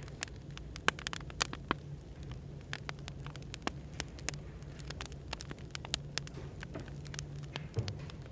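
Burning firewood crackling, with irregular sharp pops and snaps, over a low steady hum of café background noise.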